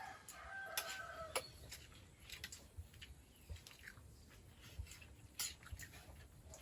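Rooster crowing, the call ending about a second and a half in, followed by faint scattered clicks.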